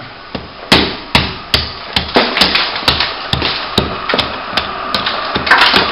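Hammer blows on wall plaster, about two to three strikes a second, chipping a crack open back to the brickwork so the patch will hold.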